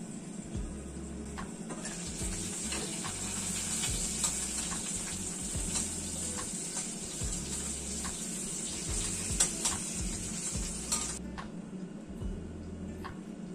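Food sizzling in a frying pan: a steady hiss with light clicks of a utensil stirring. The hiss starts about two seconds in and cuts off suddenly near the end.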